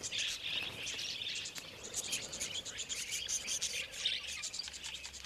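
Wild budgerigars chattering and warbling in a flock: a dense, unbroken stream of rapid high chirps.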